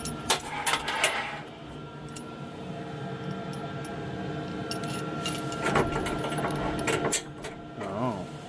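Steady hum of a running diesel heater, with sharp clicks and clatter from a camp stove being handled, and a short rush of noise about a second in.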